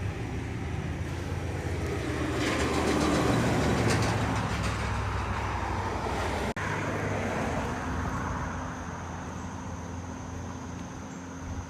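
Road traffic: a motor vehicle's engine drone and tyre noise, swelling about three seconds in and fading away in the second half.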